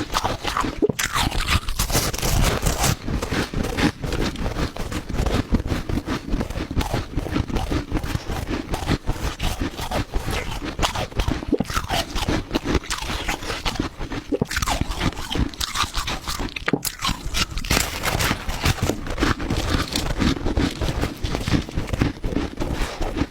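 Ice being bitten and chewed close to the microphone: a continuous run of dense, irregular crunching and crackling.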